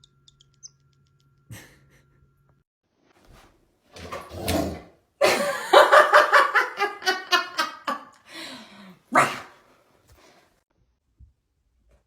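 A dog vocalising: a short pitched call about four seconds in, then a long, loud, pitched stretch of rapid, wavering calls for about three seconds, and one more call shortly after.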